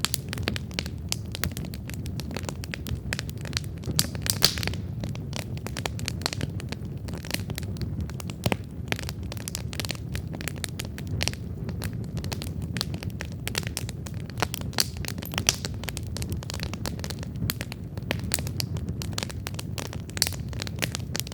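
Wood campfire burning: dense, irregular crackling and popping of burning logs over a steady low rumble of the flames, with a few louder pops scattered through.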